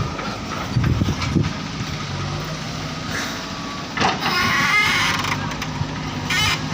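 Heavy diesel vehicle engine, a tractor or JCB loader, running steadily at a low hum. About four seconds in, a louder rushing sound with wavering higher tones joins it.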